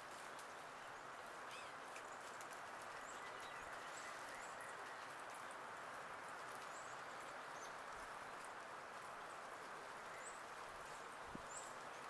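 Small birds giving short, high chip notes every second or two, faint over a steady background hiss, with light ticking and tapping.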